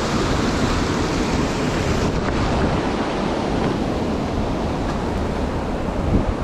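Mountain river rushing steadily over rocks, a continuous even roar of water.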